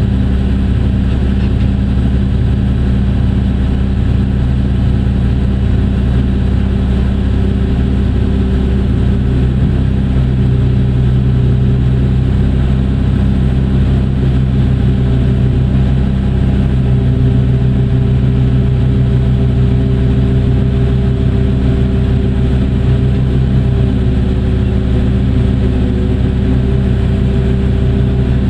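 Large diesel engine of a Hitachi EX2600 mining excavator running steadily at working speed, with a regular low pulse. Higher tones rise and shift in pitch from about a third of the way in.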